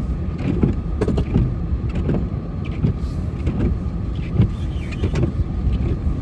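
Snow-plow vehicle running while plowing snow, heard from inside the cab: a steady low rumble with irregular knocks and clunks.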